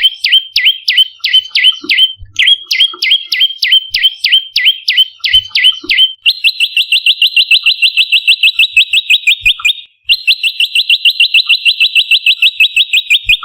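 Prenjak lumut calling: a run of sharp, down-slurred chirps, about four a second, with a short break after two seconds. About halfway through it switches to a fast, even trill, which stops briefly and then starts again.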